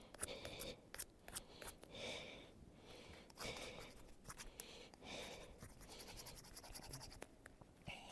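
Victorinox pocket knife blade scraping bark off a dry wooden stick in short, faint scraping strokes every second or two.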